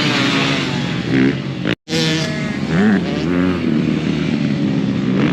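Dirt bike engines racing on a dirt track, their pitch rising and falling as the riders work the throttle. The sound cuts out completely for an instant just under two seconds in.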